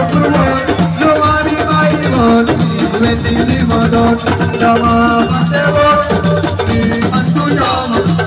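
Live Senegalese assiko band music: a fast, dense percussion beat under a pitched melody line.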